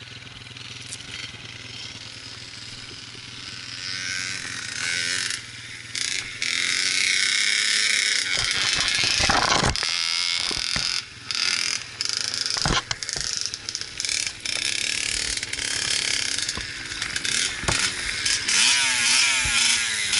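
Dirt bike engine running and revving under a rush of wind noise, the sound cutting out for a moment several times.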